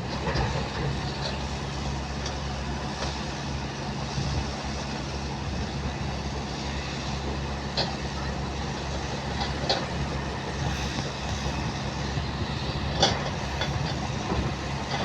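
Diesel engine of an excavator-type digger running steadily, with a few sharp metallic clanks, the loudest about two-thirds of the way through.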